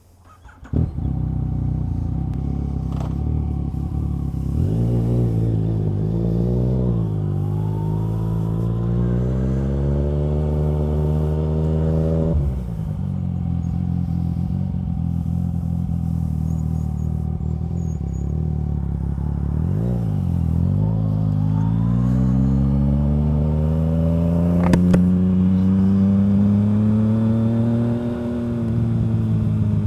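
Yamaha FZ-09's inline three-cylinder engine breathing through a full M4 aftermarket exhaust. It fires up suddenly about a second in, then runs with its pitch climbing slowly twice, with a sharp drop in between about twelve seconds in.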